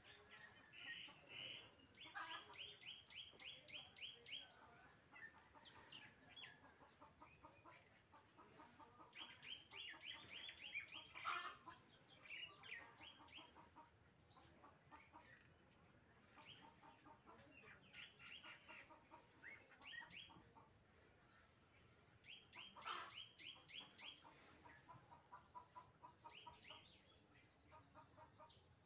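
Faint birds calling: bouts of rapid, evenly repeated high notes every few seconds, with two louder, lower calls standing out, one about a third of the way in and one about two-thirds through.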